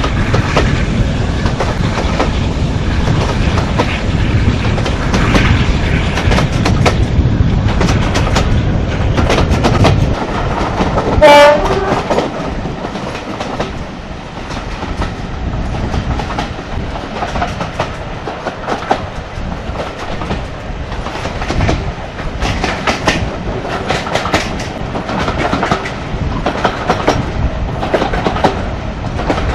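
Heritage train running on rails: a heavy low rumble for the first ten seconds or so, then wheels clicking over rail joints. About eleven seconds in, the locomotive gives one short, loud warning toot.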